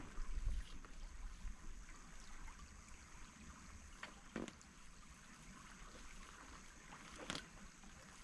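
A stream running steadily, with a few short clicks about four and seven seconds in.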